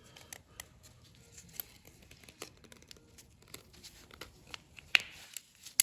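Piston rings being worked onto a piston by hand: faint scattered metallic clicks and rustling, with one sharper click about five seconds in as a ring seats.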